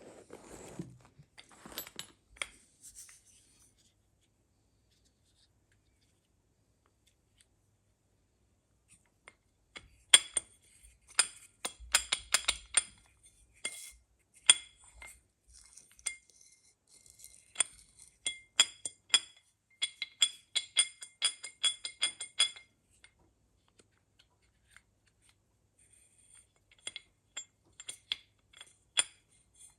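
Metal parts and tools of a circulation pump clinking and ringing during disassembly: a few knocks at first, then after a quiet spell a long run of quick, sharp metallic clicks, and more clinks near the end.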